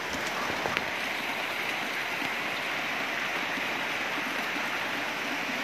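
Steady rain falling on a corrugated metal roof, a constant hiss of drops with water dripping off the roof edge. A single sharp tick sounds just under a second in.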